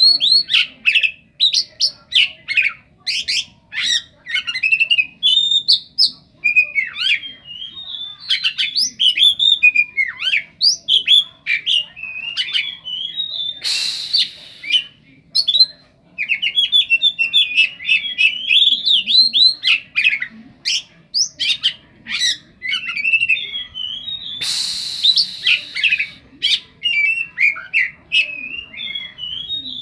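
Oriental magpie-robin (kacer) singing a long, continuous, varied song of quick whistles, trills and chatter, its phrases filled with mimicry of a long-tailed shrike (cendet). Twice it breaks into a brief harsh, rasping burst.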